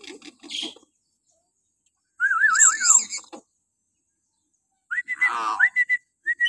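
Hill myna calling: a short harsh chatter at the start, then a loud warbling whistle about two seconds in, and near the end a run of short whistled notes mixed with a throaty, speech-like burble.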